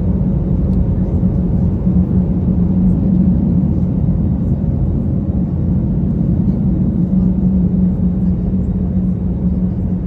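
Airbus A321 passenger cabin in flight: the steady drone of engines and airflow, a low rumble with a constant hum in it.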